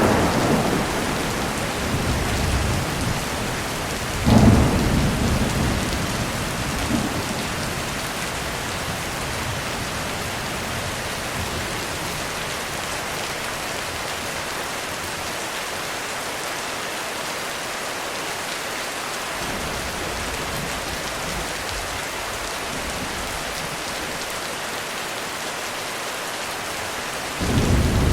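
Heavy rain falling steadily on a roof during a thunderstorm. A rumble of thunder is fading out at the start, a thunderclap about four seconds in rolls away over a few seconds, and another clap breaks near the end.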